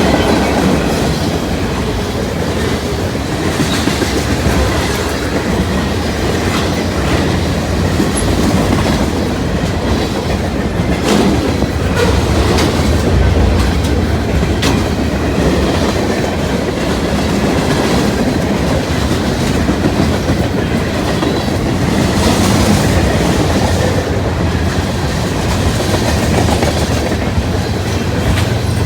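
Freight cars of a manifest train rolling past, a steady rumble with wheels clacking over rail joints at irregular intervals.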